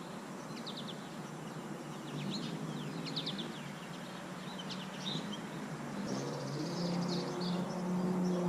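Small birds chirping in short bursts of quick high notes, several times, over a steady outdoor background noise. A low steady hum comes in about six seconds in.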